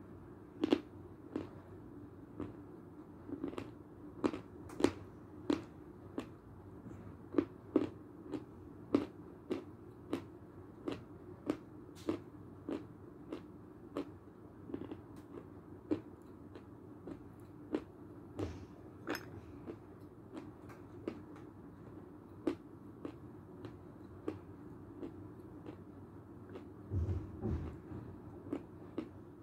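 Lumps of Belgorod chalk being chewed with the mouth closed: a steady series of crisp crunches, about one and a half a second, softer in the second half.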